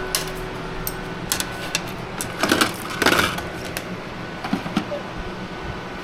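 Scattered light clicks and knocks with two short rustles about two and a half and three seconds in, typical of small parts and packaging being handled.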